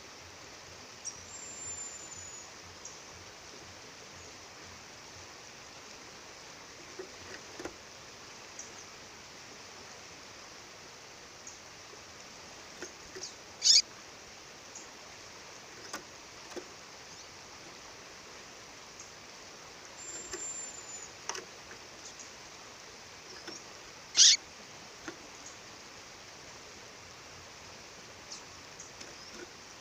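A female songbird calling: two loud, sharp chirps that sweep downward in pitch, about ten seconds apart, with a few short, high thin whistles between. The steady rush of a waterfall runs underneath.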